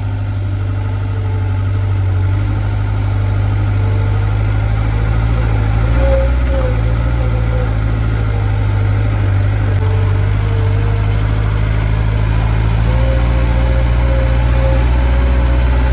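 Skid steer engine running steadily as the machine creeps slowly over slippery ground, with a whine that steps up a little in pitch about six seconds in and again near the end.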